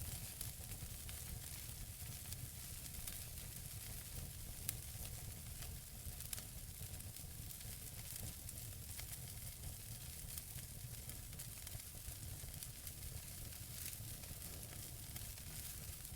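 Wood fire burning in a fireplace: a steady hiss and low rumble with many small crackles and pops from the burning logs, one slightly louder pop about five seconds in.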